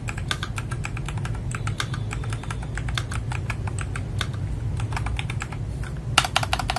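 Typing test on an FL-Esports MK870 mechanical keyboard fitted with Kailh Box Brown tactile switches: a steady run of keystroke clacks, several a second, with a quick flurry of keystrokes near the end, over a steady low hum.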